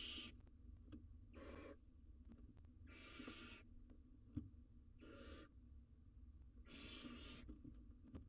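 Barn owl owlet giving drawn-out hissing calls, the rasping 'snore' that barn owl chicks use to beg for food. There are four calls of about half a second each, roughly two seconds apart, with a single faint click between the second and third.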